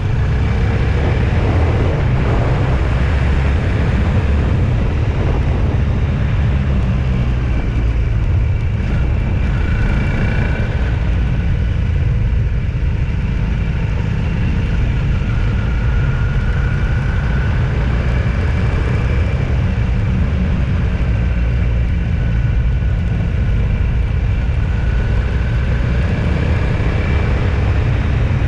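Steady rumble of a vehicle under way on the road: engine and tyre noise that holds an even level throughout, with a faint wavering whine above it.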